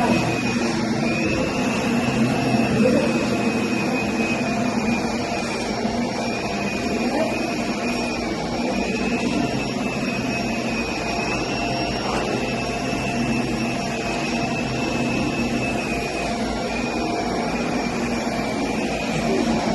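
Vacuum cleaner running steadily over carpet. Its motor whine sags slightly in pitch every couple of seconds as it is pushed back and forth.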